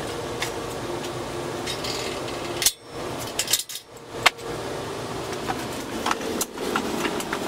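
Steel parts clinking and knocking together as they are handled, a few sharp clanks in the middle, over a steady hum.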